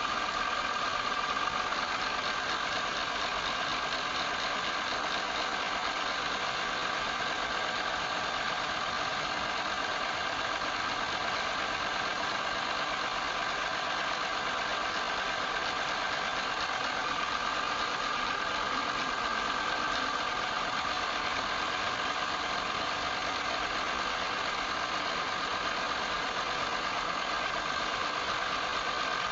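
Wood lathe running steadily, with a constant high whine throughout.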